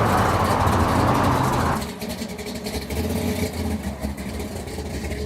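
A car's engine running, with a loud rushing noise over it that cuts off abruptly about two seconds in, leaving a lower steady engine rumble.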